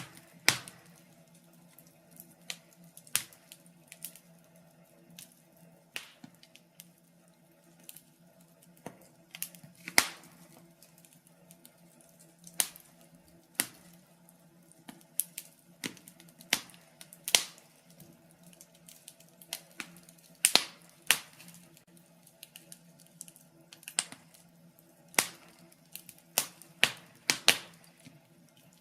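Wood fire crackling: logs burning in a fireplace give irregular sharp pops and snaps, sometimes several in quick succession, over a faint steady low hum.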